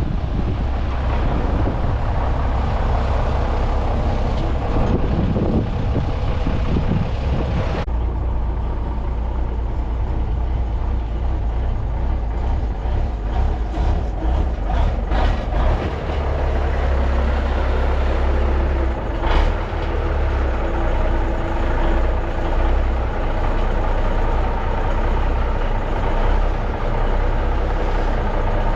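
Brockway truck's Cummins diesel engine running steadily under way, a deep, even drone. A string of short knocks comes from the truck partway through, and a single sharp clack comes a few seconds later.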